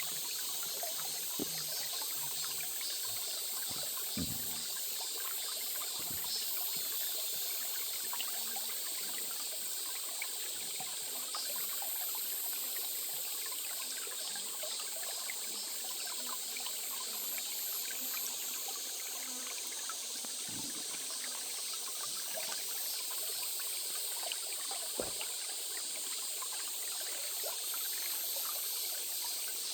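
Small stream trickling steadily over stones, an even, hissy water sound with a few faint low knocks.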